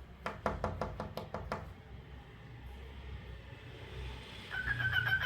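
Cockatiel: a quick run of about eight sharp taps in the first second and a half, then a short whistled chirp near the end.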